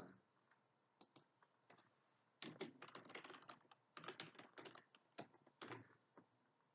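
Faint typing on a computer keyboard: a few single keystrokes, then quick runs of keys with short pauses between them.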